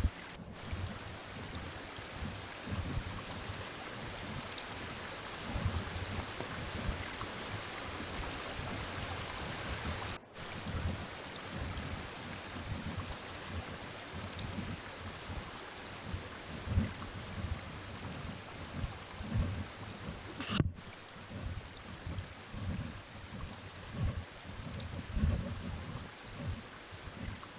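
Steady hiss of falling rain and running water, with irregular low thumps underneath. The sound drops out for an instant twice, about a third and two thirds of the way through.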